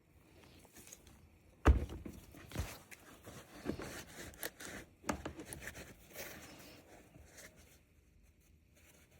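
Chainsaw parts and hand tools being handled on a work surface during disassembly: a sharp knock about two seconds in, then a few seconds of scattered clicks, knocks and scrapes that die down near the end.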